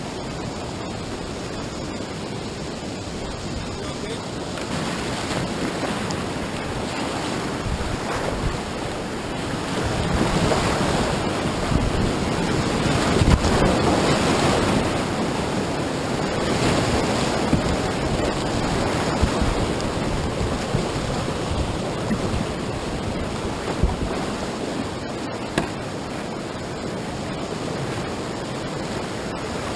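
Rushing whitewater of a river rapid, a steady wash of water noise that grows louder for several seconds in the middle, with wind buffeting the microphone and a few brief knocks near the end.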